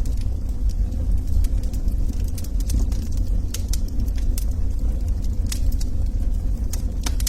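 Log fire burning, with a steady low roar and irregular sharp crackles and pops of burning wood, several a second.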